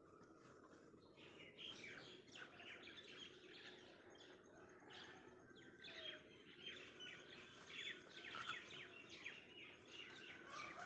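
Faint birdsong: many short, overlapping chirps from small birds.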